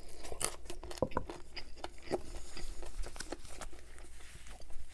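Close-miked chewing and clicking mouth sounds as meat is stripped off a buffalo fried chicken bone, then a paper towel rustling against the mouth near the end.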